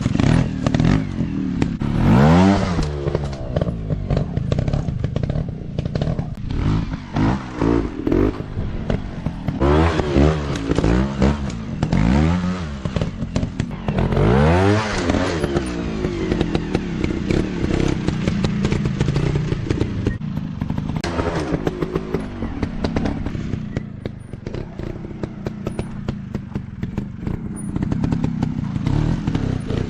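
Small off-road dirt bike engines revving hard and easing off again and again, rising and falling in pitch with several sharp rev peaks, then running more evenly in the second half.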